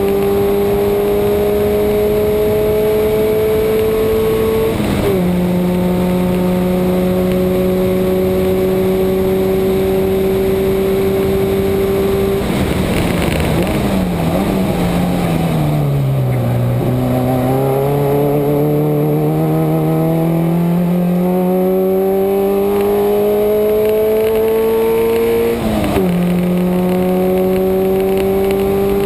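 Subaru's engine pulling hard through the gears on a race track, its pitch climbing steadily, with a sharp drop in pitch at an upshift about five seconds in. Around the middle the sound turns rough and falls as it slows and gears down for a corner, then climbs again to another upshift near the end.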